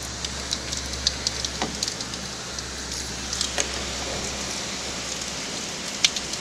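Very heavy rain pouring down, with a dense patter and sharp splashes of drops. A low rumble runs underneath for the first few seconds.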